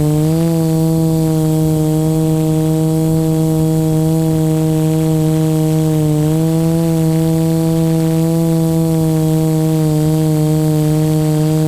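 Electric motor and propeller of an FPV model aircraft running steadily under throttle, a loud even hum with a thin high whine above it. The pitch steps up slightly at the start and shifts a little again about six seconds in as the throttle changes.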